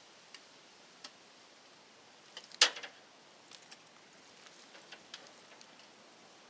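Scattered light clicks and taps, with one sharper, louder click-clack about two and a half seconds in.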